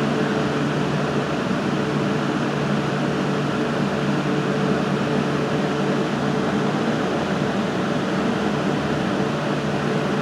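Steady mechanical hum with a hiss over it.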